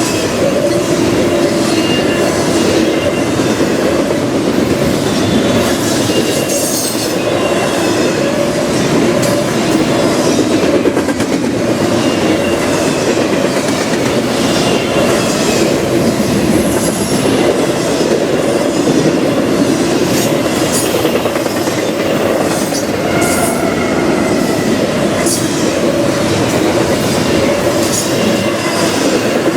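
Railroad cars rolling by on the rails, a steady loud run of wheel noise with light clicks, and faint high wheel squeals coming and going.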